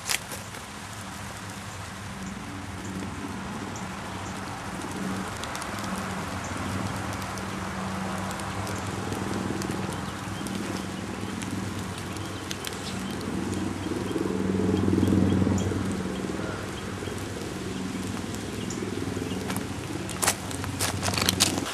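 Heavy rain pouring down and pattering on leaves and ground, with a low steady hum underneath that swells for a couple of seconds past the middle. A few sharp knocks near the end.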